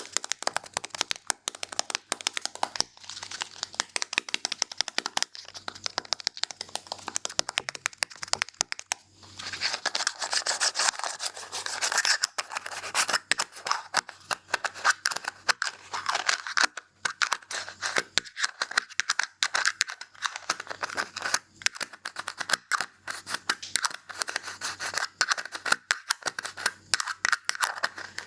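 Barber's scissors snipping rapidly and continuously, many snips a second, with stretches of denser rustling where the noise thickens between the snips.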